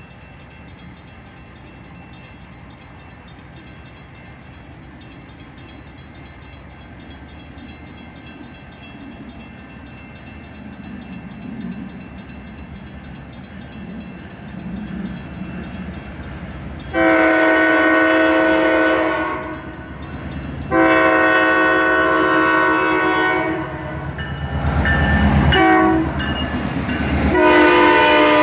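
Connecticut Southern (CSOR) local freight train's diesel locomotive approaching, its rumble slowly growing louder. A little past halfway it sounds its multi-tone horn in a long, long, short, long pattern, the standard grade-crossing signal. The last long blast is still sounding as the locomotive reaches the platform and the freight cars start rolling past.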